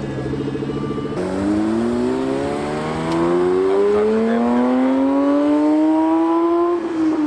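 Supercharged car engine accelerating away: it idles steadily, then about a second in it pulls with a smooth, long rise in pitch for about five seconds, and the pitch drops quickly near the end as it shifts up.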